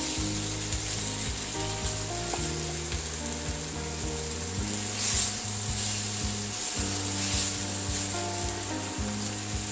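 Spice-coated raw jackfruit and prawns sizzling in a pan while a spatula stirs and scrapes through them, with light ticks of the spatula against the pan; the sizzle swells now and then as the mixture is turned. Soft background music with held chords plays underneath.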